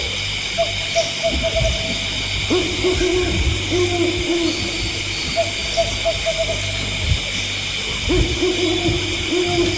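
An owl hooting in quick, quavering runs of repeated notes, some series lower and some higher, over a steady high-pitched drone.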